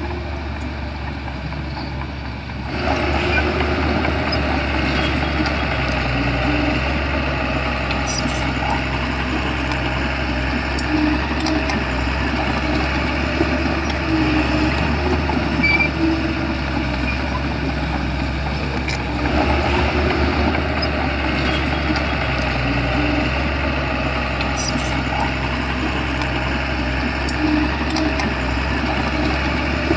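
Shantui bulldozer's diesel engine running steadily, getting louder about three seconds in and again about two-thirds of the way through, with a few brief clanks.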